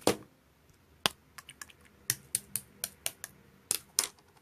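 About a dozen short, light clicks at irregular intervals, like typing on keys.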